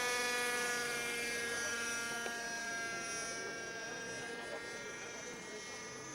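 Radio-controlled model aircraft engine and propeller running with a steady high-pitched whine, its pitch sinking slightly as it fades away.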